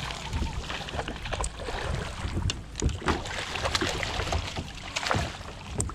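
Water splashing and sloshing around a fishing kayak, with scattered knocks and clicks throughout and wind on the microphone.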